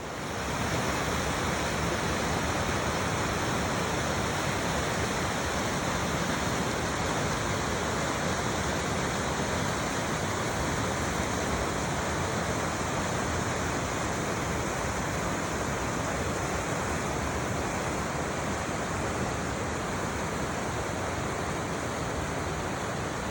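Steady rush of water falling at an ice-covered waterfall, growing louder about half a second in and then holding even.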